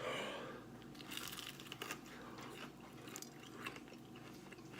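Faint crunching and chewing as a person bites into and eats a fried chicken wing, with scattered small clicks.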